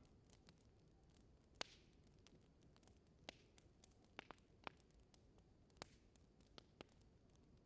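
Faint wood fire crackling in a fireplace: scattered sharp pops and snaps over a low steady background, the loudest pop about one and a half seconds in.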